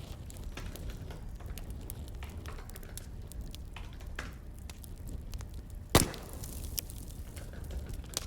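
Wood fire crackling over a steady low rumble, with scattered small pops and one loud sharp crack about six seconds in.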